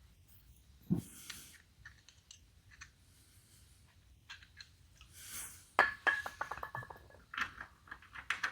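Hand tools working on the rusty fender-bolt threads: a knock about a second in, metal scraping, then a quick run of ringing metallic clicks lasting about a second, with more clicks and scrapes near the end.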